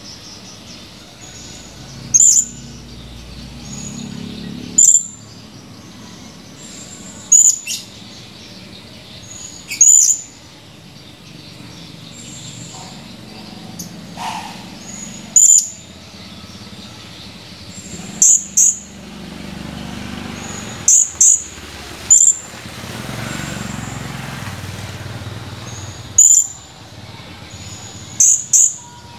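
Blue-crowned hanging parrot (serindit) giving short, sharp, high-pitched calls every two to three seconds, several of them in quick pairs.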